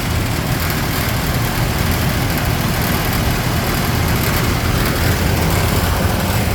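Large ventilation fan running with a steady low rumble and a rattling, shaking vibration noise.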